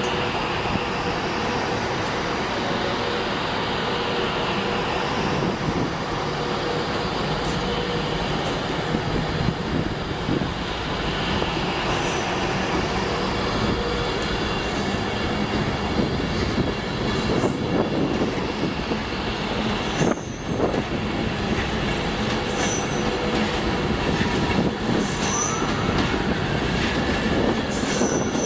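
Train running through the station, a steady rumble with high-pitched wheel squeals that come and go, one gliding up and down near the end.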